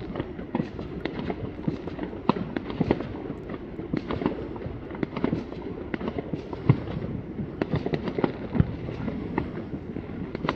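Many fireworks going off at once: a continuous rumble of bangs with frequent sharp pops and crackles, and one louder bang about two-thirds of the way through.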